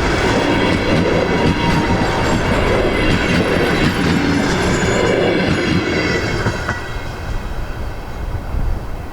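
Steam-hauled passenger train rolling past: wheels clattering over rail joints with a thin high squeal, dying down about seven seconds in.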